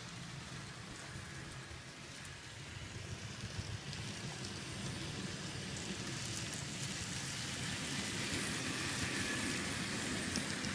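N scale model train running along its track: a steady noise of wheels on rail and a low motor hum that grows gradually louder.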